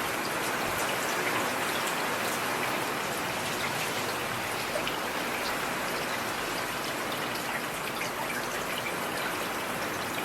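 Steady rain falling on a hard surface, a constant hiss dotted with sharp individual drop ticks.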